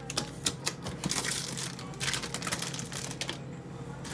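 Plastic packaging crinkling as it is handled, with sharp clicks and knocks, over a steady low hum.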